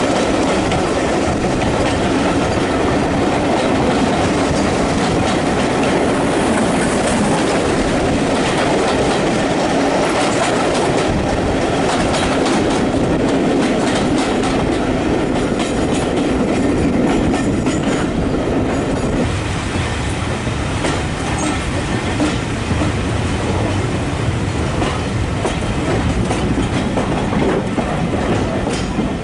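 Train rolling along the track, its wheels clicking over the rail joints with a steady rumble and some wheel squeal.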